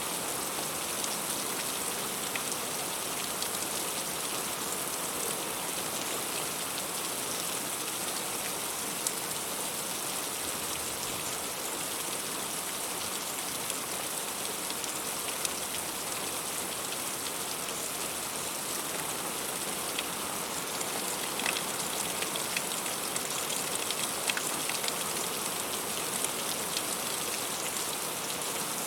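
Heavy rain falling steadily on fruit, with many small sharp drop hits scattered through an even hiss.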